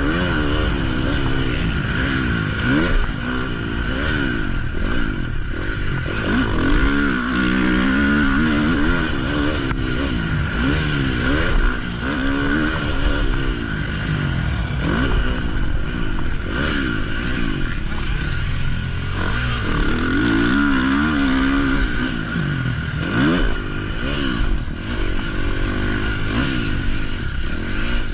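Motocross dirt bike engine revving up and falling back again and again, its pitch climbing and dropping every second or two as the bike is ridden around the track.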